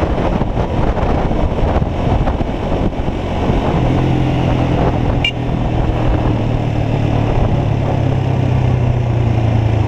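Motorcycle engine running under wind and road noise on the microphone. A steady low engine hum comes up about four seconds in and holds.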